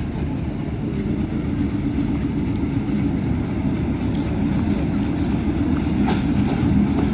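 Mongla Commuter local train's steady low rumble, growing slowly louder.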